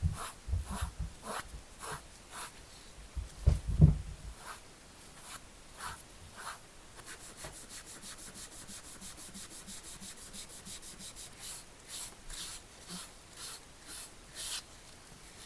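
Hand-worked abrasive rubbing on a workpiece: short scraping strokes about two a second, quickening to a fast even scrub of about seven strokes a second midway, then slowing again. A couple of heavy low thumps come a little before the four-second mark.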